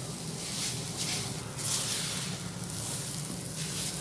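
Grated radish sizzling gently in a nonstick karahi while a silicone spatula stirs it in repeated strokes, the moist shreds cooking down as their water is driven off.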